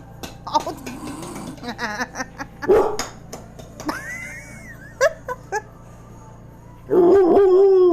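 Dog vocalizing on the cue 'say hi': several short, wavering howl-like 'talking' calls. The loudest comes near the end and falls in pitch.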